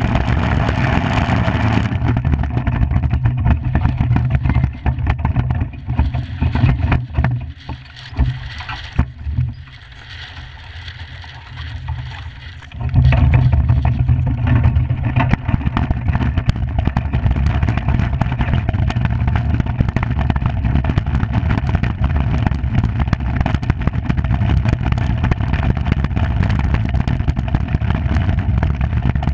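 Steady low rumble and hiss of a Skimmer 45 iceboat's runners skating over the ice at speed, mixed with wind on the microphone. The noise falls away for several seconds near the middle, then comes back suddenly at full strength.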